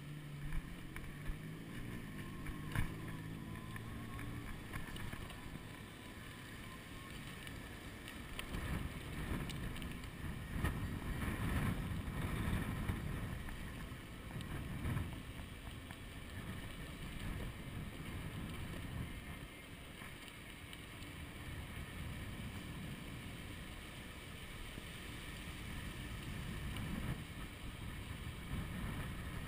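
Wind buffeting the chest-mounted GoPro HD Hero 2's microphone on a moving electric bicycle: a gusty low rumble that swells and eases, loudest around ten seconds in, with a few sharp clicks in the first three seconds.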